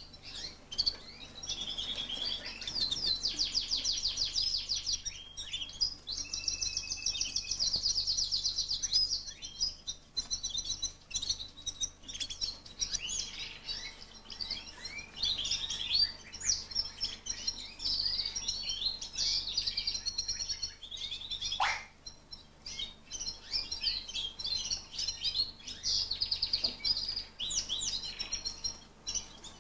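Fife canaries singing: a flock chorus of fast trills and chirps that runs on without a break, with one long falling note about two-thirds of the way through.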